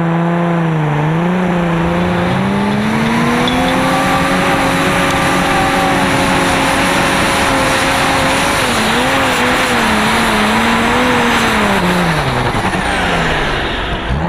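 Light super stock pulling tractor engine running wide open under load. Its pitch dips briefly at the start, holds high and steady, wavers up and down, then falls away near the end as the throttle comes off.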